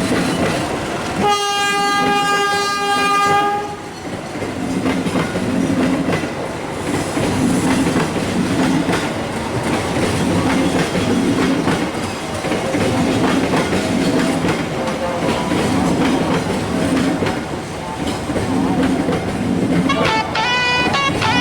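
A train horn sounds once for about two seconds, a little after the start. Then the train's wheels click-clack over rail joints in a steady rhythm as the cars roll by. Guitar music comes in near the end.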